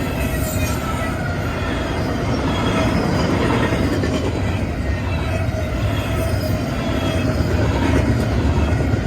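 Freight train's container cars rolling past, a steady loud rumble of steel wheels on rail with thin wheel squeal coming and going over it.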